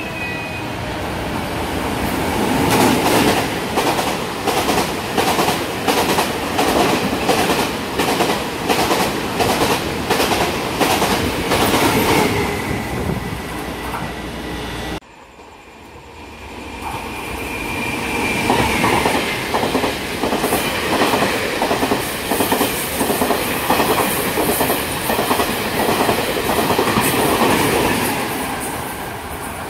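Two Taiwan Railways Tze-Chiang express trains pass through the station at full speed, one after the other, with an abrupt cut about halfway between them. Each gives a loud rush of wheel and rail noise with a rhythmic clickety-clack as the wheels cross the rail joints. The second pass starts quieter and builds up as the train comes in.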